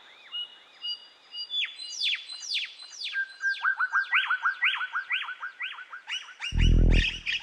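Birds calling: repeated swooping calls that fall in pitch, faint at first, then louder and denser. Near the end, loud guitar music starts.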